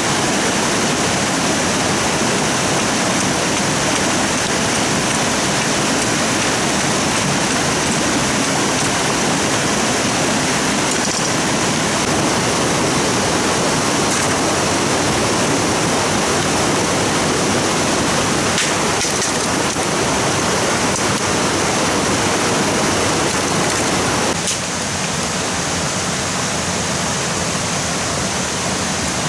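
Steady, loud rush of water, which drops a little in level a few seconds before the end.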